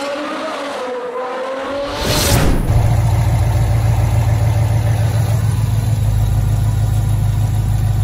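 A short wavering tone from intro music, then, about two and a half seconds in, the 6.2 L V8 of a sixth-generation Chevrolet Camaro running at a steady idle.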